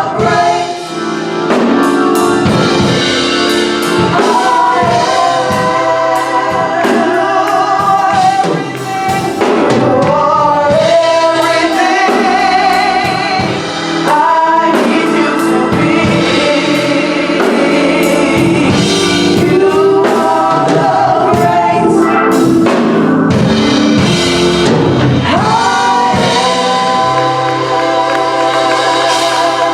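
Gospel music: voices singing together over instrumental accompaniment, with regular drum hits throughout.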